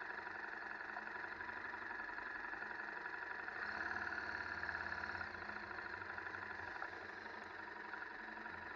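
KTM 1190 Adventure's V-twin engine idling steadily, with a short swell in level around the middle.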